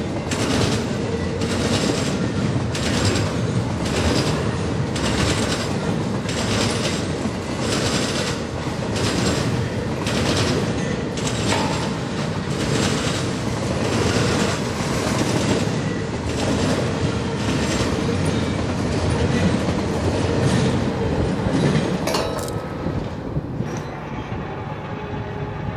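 Double-stack intermodal freight train rolling past, its wheels clicking over rail joints in a steady rhythm of about one and a half clicks a second over a continuous rumble. Near the end the sharp clicks fade and only a duller rumble remains.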